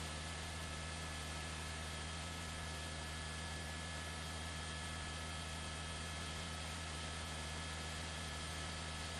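Steady electrical hum with hiss, unchanging throughout: line noise on a live broadcast feed with no programme sound.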